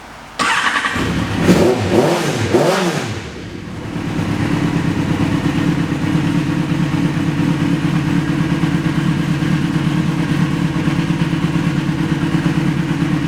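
Yamaha XJR1300's air/oil-cooled inline-four starting through an aftermarket muffler about half a second in, revved up and down a few times, then settling into a steady idle from about four seconds in.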